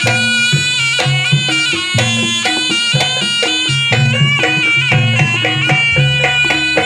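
Jaranan gamelan music playing loudly: a shrill, nasal reed melody, the slompret, over a steady rhythm of drum and gong-like low strokes.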